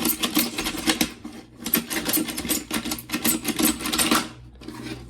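Rapid plastic clicking and clattering of Akedo battle figures fighting in their toy arena. It stops about four seconds in, with a few more clicks near the end.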